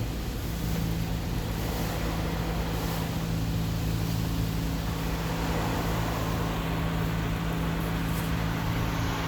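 Automatic car wash machinery running: a steady low mechanical hum with an even rushing noise over it.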